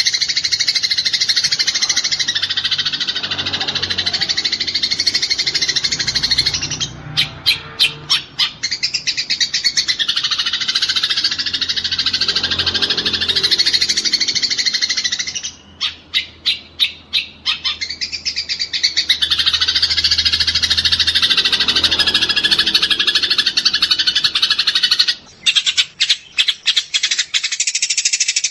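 Eurasian tree sparrows chattering in a dense, rapid stream of calls, the agitated chatter of sparrows fighting. Three times the stream breaks into a brief stuttering run of separate clicks.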